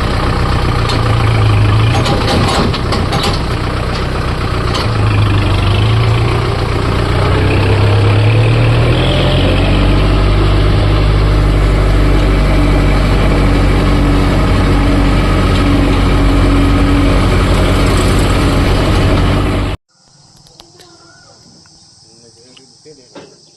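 Tractor's diesel engine running loudly. It picks up speed about nine seconds in and then holds a steady pitch. The sound cuts off suddenly near the end, leaving only faint low noises.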